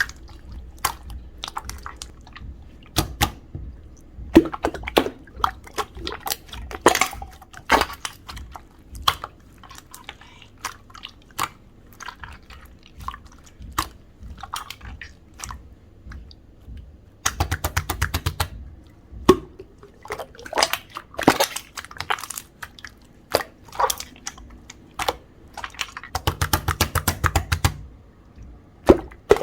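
Clear slime being pressed, poked and stretched by hand, making irregular wet clicks and pops. Twice, just past the middle and near the end, the clicks come in a quick crackling run.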